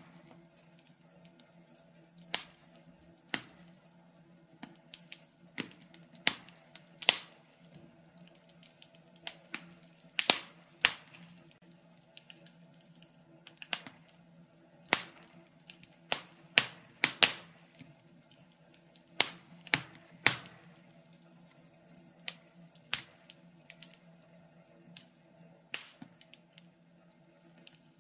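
Wood fire burning in a fireplace, crackling with irregular sharp pops, some louder than others, over a faint steady low hum.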